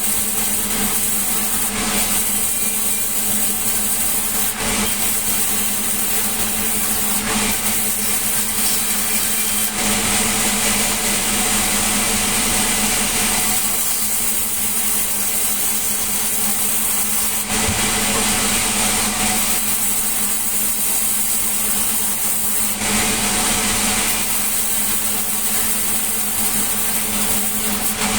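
Sawmill saw running and cutting melinjo wood: a steady machine hum under a hiss that changes every few seconds as the blade works through the timber.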